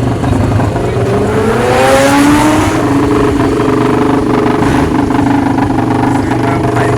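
A car engine revving: its pitch climbs from about a second in until about three seconds in, then holds steady at high revs.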